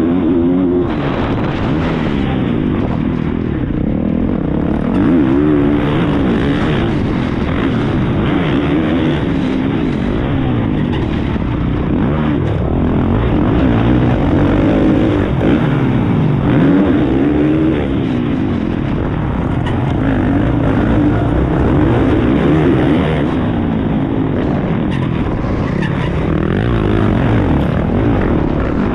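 Motocross bike's single-cylinder four-stroke engine, heard from an onboard camera at race pace, its pitch rising and falling over and over as the rider opens and closes the throttle through the track.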